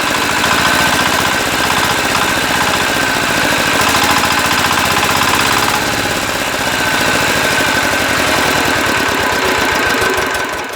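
Tractor engine running loudly with a fast, even knocking beat, dropping away near the end.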